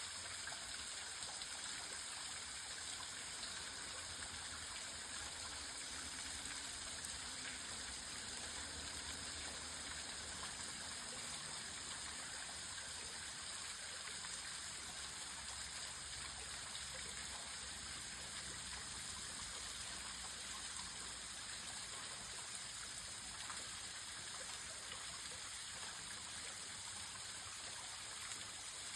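Small waterfall running at low flow, a trickle of water splashing steadily, heard as an even hiss.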